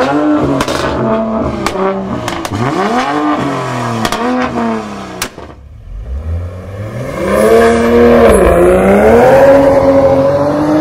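Car engine revving in a string of quick throttle blips, with sharp clicks between them, then a low rumble building into a loud, sustained high rev that dips briefly and climbs again.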